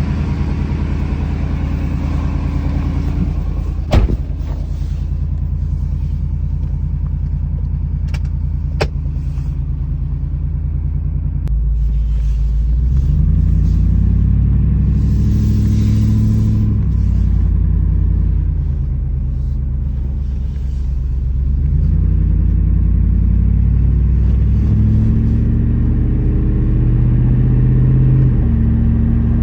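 Ford SVT Lightning pickup's supercharged 5.4-litre V8 running under way, a loud low drone. It is steady at first, then rises and falls in pitch from about a third of the way in as the truck speeds up and slows. Two sharp clicks come early on the way.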